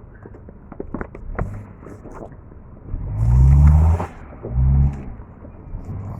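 Toyota Corolla engine running on a cold start, with a few sharp clicks early and then two short revs, the first about a second long and the second shorter, each rising and falling in pitch.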